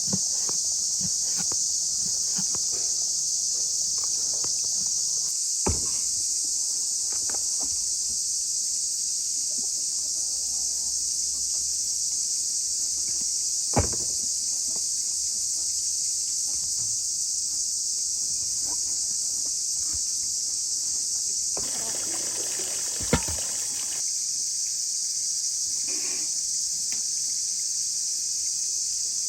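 Loud, steady high-pitched chirring of insects, with three sharp knocks through it, a stretch of rustling around the last one.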